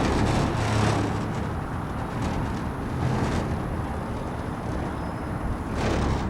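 Twin-turbo V12 engine of a Zonda-style kit car running on the move: a continuous low drone with a few louder surges, about a second in, around three seconds in and near the end.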